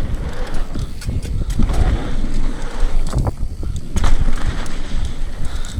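Downhill mountain bike descending a rough dirt trail: a loud rumble of wind on the microphone and tyres on dirt, with frequent knocks and rattles as the wheels hit rocks and roots.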